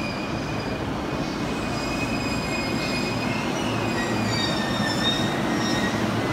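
A JR East E233-1000 series Keihin-Tohoku Line electric train pulling in alongside the platform: a steady rumble of its running gear, getting slightly louder, with thin high squeals wavering over it.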